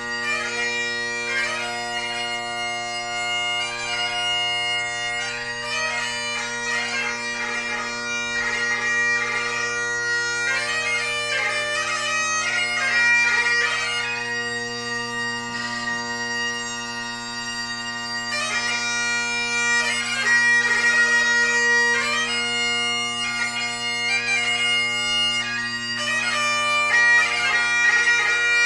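Solo Great Highland bagpipe playing a ceol beag (light music) tune: the drones hold a steady chord underneath while the chanter plays the melody with rapid gracenote ornaments.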